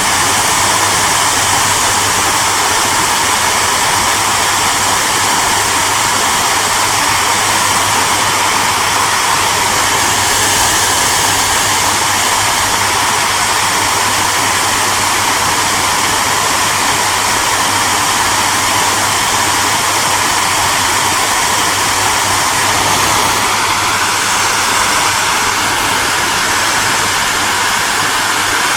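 Electric hair dryer running steadily on one setting, a continuous rushing hiss of blown air over a low motor hum. Near the end a faint tone in the hum shifts slightly higher.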